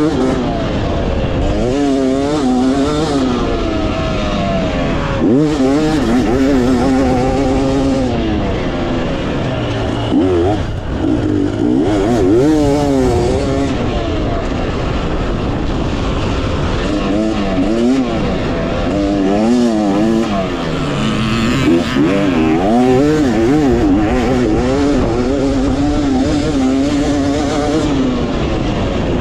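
2018 Yamaha YZ250X two-stroke single-cylinder dirt bike engine being ridden hard around a motocross track. The pitch rises and falls over and over as the rider opens and closes the throttle and shifts through jumps and corners, over a steady rush of wind noise.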